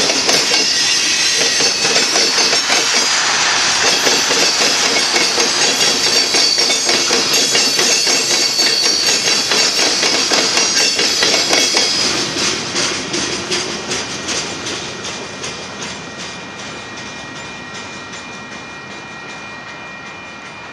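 Covered hopper cars of a freight train rolling past, wheels clacking quickly over rail joints with a steady high-pitched wheel squeal. About twelve seconds in, the sound begins to fade away steadily as the end of the train passes.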